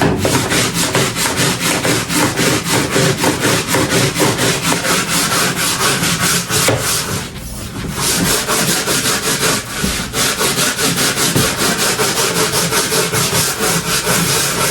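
A floor being scrubbed back and forth by hand, a fast run of rough scraping strokes at about four or five a second, with two short breaks partway through.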